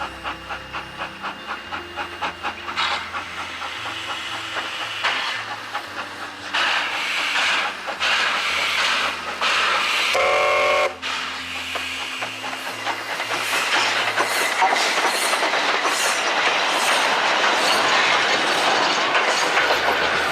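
Steam train running, with regular exhaust beats and rail clatter under a steady hiss that grows louder in the second half. A short whistle blast sounds about halfway through.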